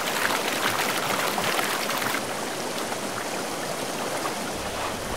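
Water splashing as a brown bear thrashes its head in a river for the first two seconds or so, then the steady rush of the flowing river.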